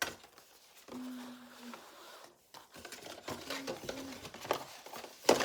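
Cardboard blind-box packaging being handled and opened by hand: scattered taps, rubs and scrapes, with one sharp knock near the end.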